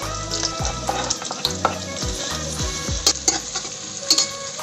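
Sliced shallots and garlic frying in oil in a wok, a steady sizzle, with a spatula scraping and clicking against the pan as they are stirred.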